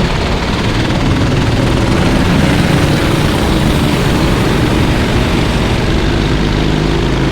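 Kart engine running steadily at speed, a continuous loud drone with no breaks.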